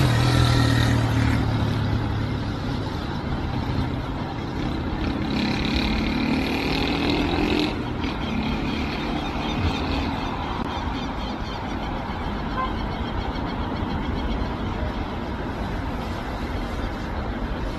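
Steady vehicle engine noise, with a higher tone from about five to eight seconds in.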